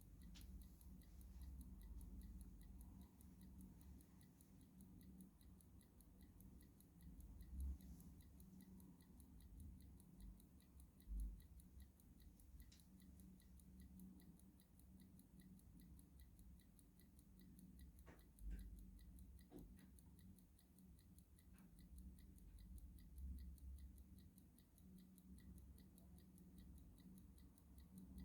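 Clock ticking faintly at an even rhythm, over a low rumble with a few soft thumps.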